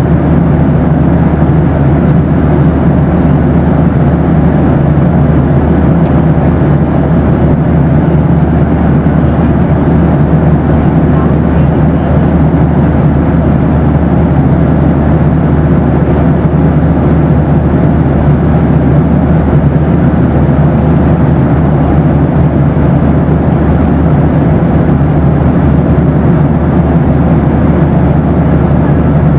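Boeing 737 cabin noise: a steady, even, low-pitched rush of engines and airflow with a faint steady hum, unchanging throughout.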